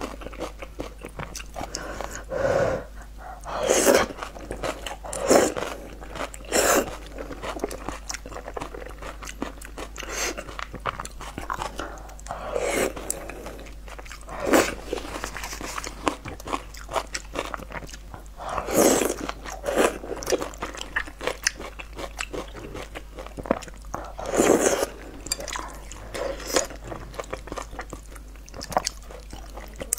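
Close-miked eating sounds: a person biting and chewing mouthfuls of a saucy egg, tomato and green-pepper stir-fry, with small mouth clicks throughout and louder bites every few seconds.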